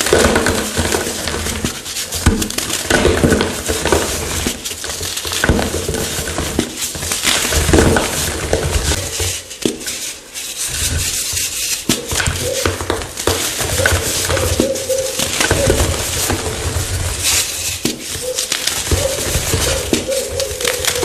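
Chalk blocks being crushed: a dense run of crunching and crackling, with a short lull about ten seconds in.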